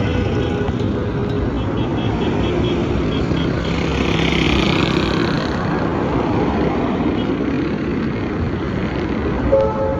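Road traffic noise, the steady running of vehicles on a busy road, with a short vehicle horn blast about nine and a half seconds in.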